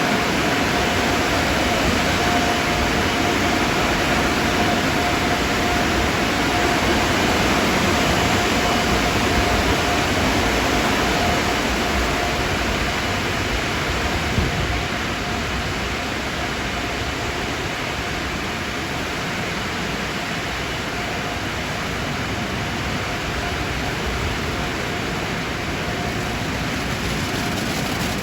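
Automatic car wash equipment running: a steady rushing noise with a thin, steady whine through it.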